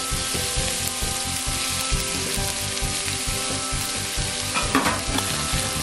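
Sliced beef frying in hot oil with minced garlic and ginger in a wok, giving a steady sizzle.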